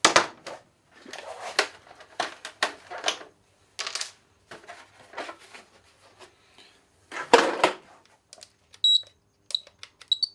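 Tools and parts clicking, clattering and rustling as they are handled while working on a nitro RC car, with a louder knock near the start and another clatter about three-quarters of the way through. A few short, high beeps sound near the end.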